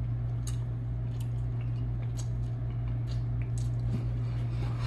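Close-miked chewing and wet mouth sounds of a man eating smoked barbecue chicken, with scattered short smacks. A steady low hum runs underneath.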